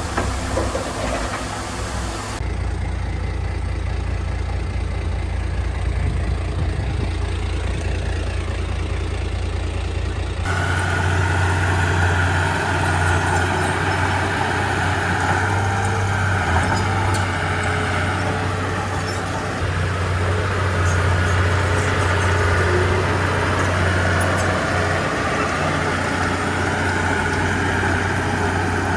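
Heavy diesel engines of earthmoving machinery running steadily, with a deep engine note. The sound changes abruptly about two and a half seconds in and again about ten seconds in.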